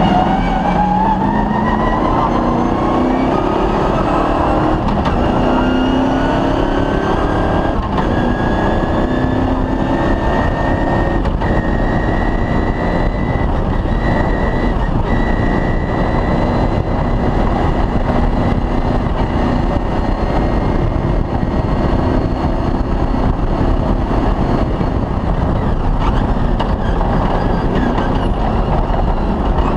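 Off-road rally car's engine pulling hard, its pitch climbing steadily for about the first ten seconds and then holding at high revs, over constant rough rumble from the car at speed.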